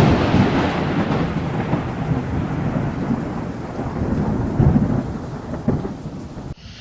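A long, rolling rumble echoing after a loud aerial firework report, slowly fading, with a couple of fainter thuds in its second half.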